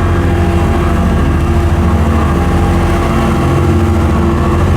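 Heavy diesel engine running steadily at a constant speed, a deep hum with a fast even throb.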